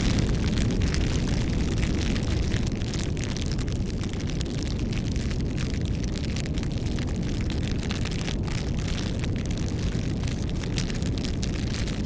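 Wood fire burning: a steady low rumble of flames with many sharp crackles and pops from the burning wood.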